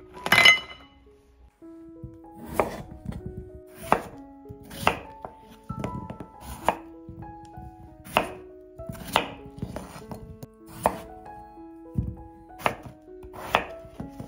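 Sharp knocks, about one a second at uneven spacing, over soft background music of held notes.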